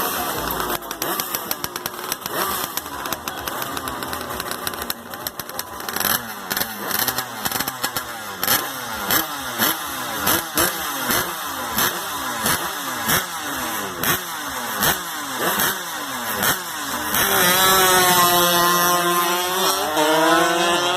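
A motorcycle engine running, then revved in quick repeated blips, about two a second. Near the end, a louder sustained pitched sound takes over and rises in pitch.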